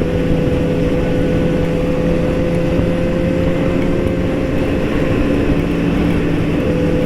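Motorcycle engine running at a steady cruising speed, its pitch held even, with the rumble of riding at road speed.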